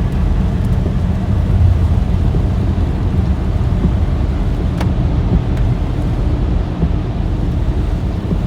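Steady low rumble of a car driving on the road, with one faint click about five seconds in.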